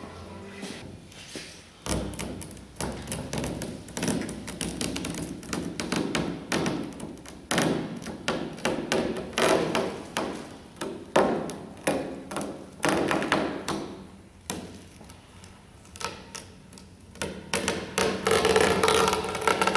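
Irregular taps and knocks, as of objects being handled and set down, at an uneven pace.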